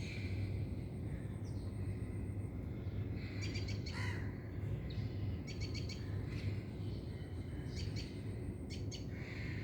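Birds chirping, with several short rapid runs of notes, over a steady low hum.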